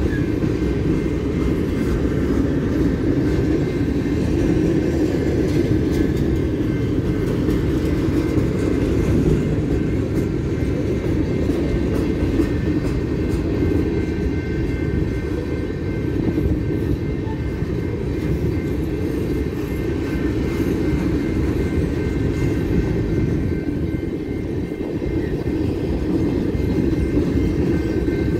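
Coal gondolas of a BNSF coal train rolling past over a grade crossing: a steady, unbroken rumble of steel wheels on the rails. Faint steady high-pitched tones run above it.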